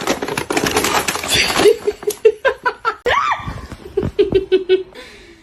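A noisy clatter of knocks and rustle, then a person laughing in a run of short, quick repeated laughs.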